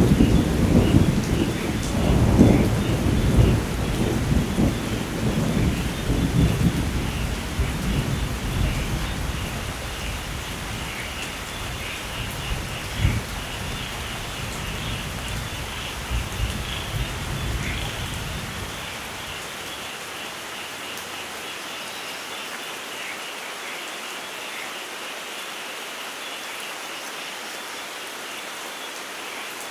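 Thunder rumbling over steady heavy rain. The rumble is loudest at the start, flares briefly about halfway through, and dies away about two-thirds of the way in, leaving only the even hiss of rain.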